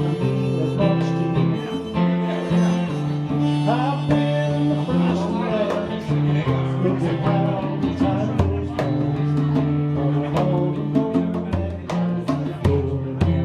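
Live band music led by strummed acoustic guitar, with sustained chords, a steady rhythm of sharp attacks and a wavering melody line above.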